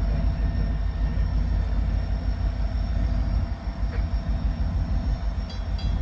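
Wheeling & Lake Erie freight train pulling out, a steady heavy low rumble of the diesel locomotives and rolling cars.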